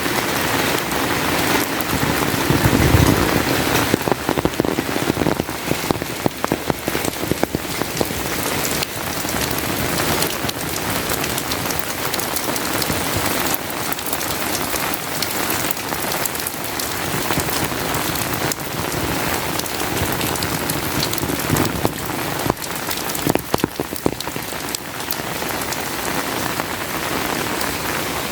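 Heavy rain falling steadily, a dense patter with many sharp individual drop hits close by.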